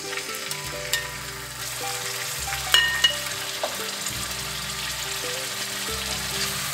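Marinated chicken pieces sizzling steadily in hot oil in a wok as they are stir-fried. There are a few sharp clinks of a metal utensil against the wok, about one second in and again about three seconds in.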